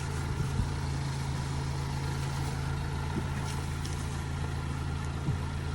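Engine idling, a steady low hum, with a few faint clicks now and then.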